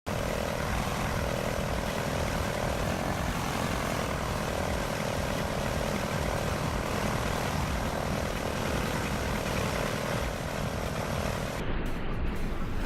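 Propeller airplane engine droning steadily over a heavy low rumble; the engine tone fades about ten seconds in.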